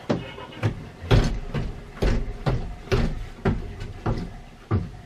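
A series of about ten heavy knocks and thumps, irregularly spaced about half a second apart, the loudest a little over a second and about two seconds in.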